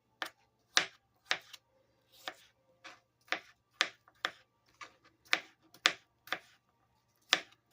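Knife chopping apple pieces on a cutting board, sharp even strokes about two a second, with a short pause near the end.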